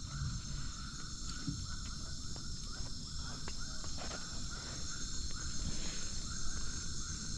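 Insect chorus: a steady high drone with a lower chirp pulsing at an even rhythm, more than once a second, over a low rumbling background.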